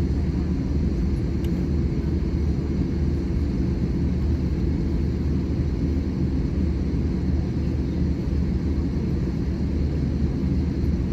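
Steady low rumble inside the cabin of an Airbus A320-200 with its engines running, even and unchanging throughout.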